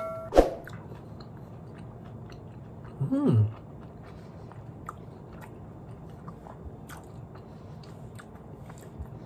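A person chewing a mouthful of rice and beef, with small wet mouth clicks throughout. A sharp click comes just after the start, and a short hummed "mm" about three seconds in.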